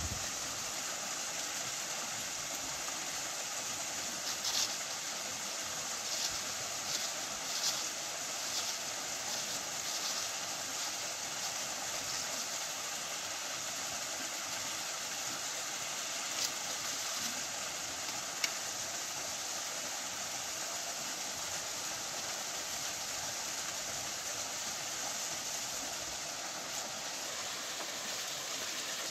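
Water rushing steadily over rocks at a small forest waterfall, with a handful of brief sharp sounds in the first half.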